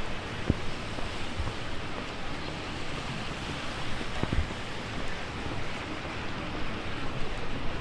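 Heavy rain and gusty wind as a steady rushing noise on a city street, with two short low thumps, about half a second in and about four seconds in.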